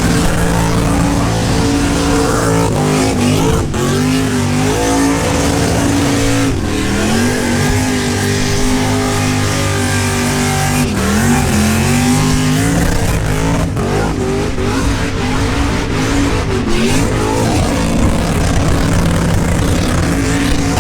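V8 engine held at high revs in a burnout, its pitch sagging and climbing back several times, with a rough hiss of spinning tyres underneath.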